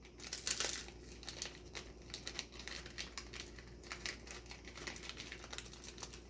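A snack wrapper crinkling irregularly as it is handled, loudest about half a second in.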